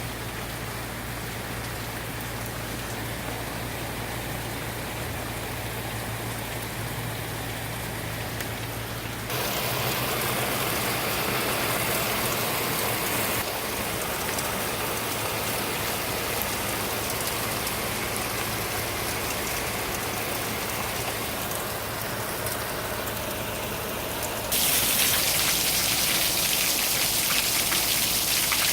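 Heavy rain falling steadily, with a hiss that jumps abruptly louder about a third of the way in and again near the end. A faint low steady hum sits under the rain in the first third.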